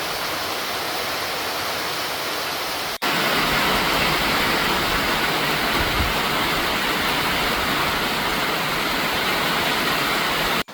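Heavy rain pouring down as a steady hiss; it breaks off for an instant about three seconds in and returns louder.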